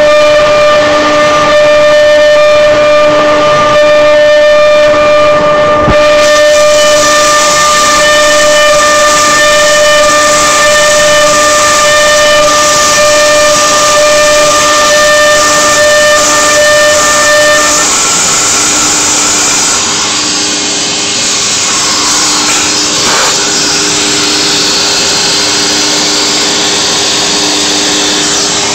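CNC router running: a steady whine made of several held tones over a loud rushing noise. The higher tones stop about two-thirds of the way through, leaving a lower pulsing tone and the rush.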